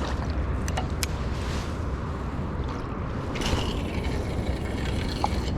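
A carp rod being cast out with a heavy feeder rig: a few light clicks from the reel and a hissing swish as the line goes out, over a steady wind rumble on the microphone.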